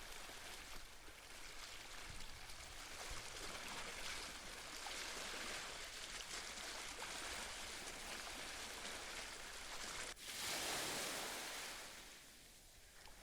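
Ocean waves washing onto the shore in a steady hiss of surf that swells and ebbs, with a louder wave breaking about ten seconds in and then fading away.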